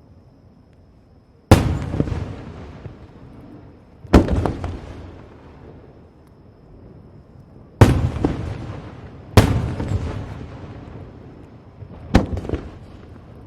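Aerial firework shells bursting: five loud booms a few seconds apart, each trailing off over a second or two.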